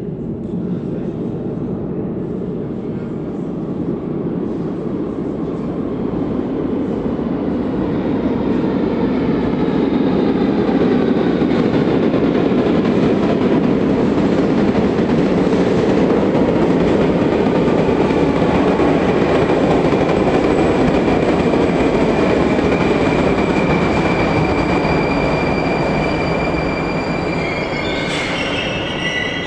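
Rusich 81-740/741 articulated metro train moving off: the traction drive's whine climbs in pitch as it accelerates over a rumble of wheels on rail that swells and then eases. High wheel squeal near the end.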